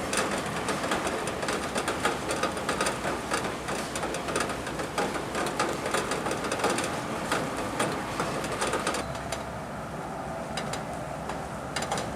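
Heavy thunderstorm rain, a dense rush with many irregular ticks and clicks of drops striking a hard surface close by. The downpour eases a little about nine seconds in, leaving fewer, scattered drop clicks.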